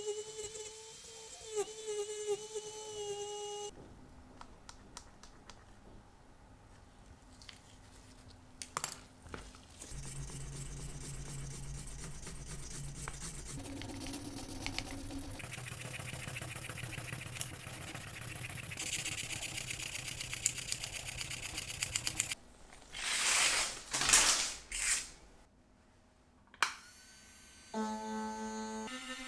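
A small handheld electric rotary tool whirring with a steady whine while its felt tip polishes a watch case. Quieter working sounds with clicks follow, then three loud noisy bursts. Near the end the tool's motor spins up again, rising in pitch, as its foot pedal is pressed.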